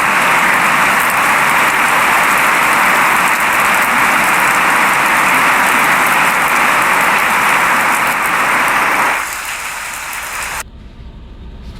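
Steady rain falling, an even hiss that drops away about nine seconds in. Near the end it cuts abruptly to a quieter low rumble.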